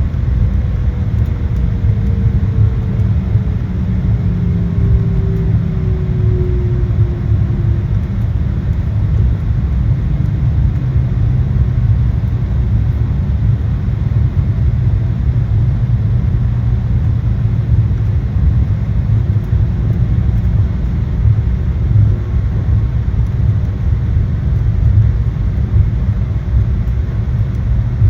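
Embraer 175 cabin noise on the ground after landing: a steady low rumble from the idling CF34 turbofans and the rolling airframe, with a whine that falls slowly in pitch over the first eight seconds or so.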